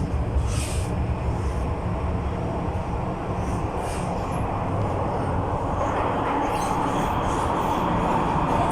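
MTR M-Train electric multiple unit running between stations: a steady low rumble of wheels on rail, with a higher whine that grows louder and rises slightly over the last few seconds.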